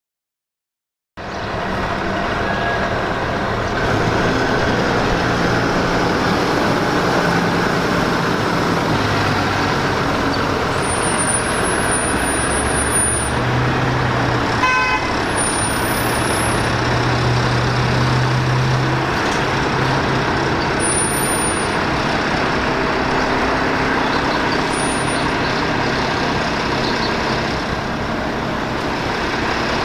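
Maxon MSL garbage truck engine running steadily, its low drone rising and falling in pitch through the middle, with a brief horn-like toot about 15 seconds in and faint high squeaks now and then.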